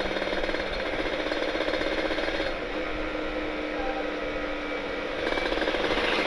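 Exhaust of a Kawasaki Ninja 150RR's two-stroke single-cylinder engine, breathing through an aftermarket Aitech carbon-kevlar expansion chamber, heard while riding as a fast run of firing pulses. The sound eases off about two and a half seconds in and picks up again a little after five seconds, as the throttle is backed off and reopened.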